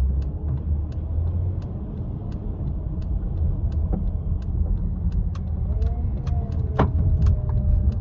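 Car running, heard from inside the cabin as a steady low rumble, with a light ticking repeating about twice a second.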